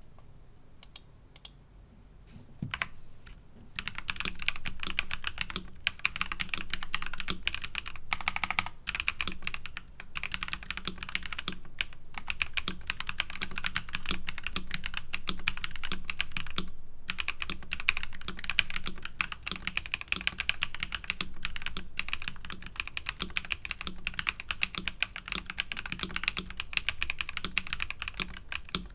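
Nuphy Halo65 mechanical keyboard with linear switches being typed on: a few scattered key presses at first, then fast, continuous typing from about four seconds in, broken by a few short pauses.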